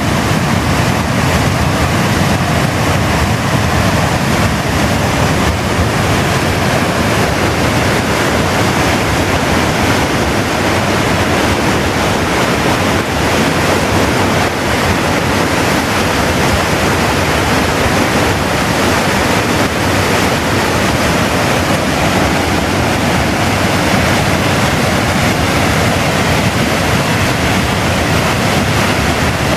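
River in spate pouring over a weir: a loud, steady rush of floodwater that does not let up.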